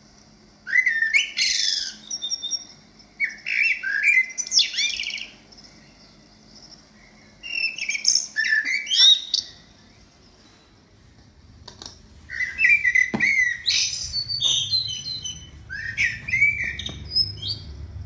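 A bird calling loudly: four bouts of high-pitched, pitch-sliding calls, each one to five seconds long, with pauses between.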